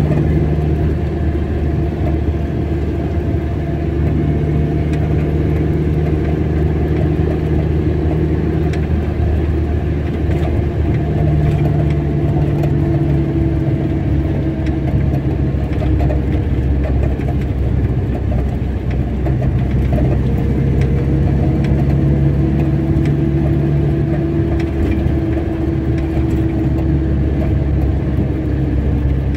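Car engine and road noise while driving at a steady pace. The engine hum shifts in pitch a couple of times, about a third of the way through and again near the end.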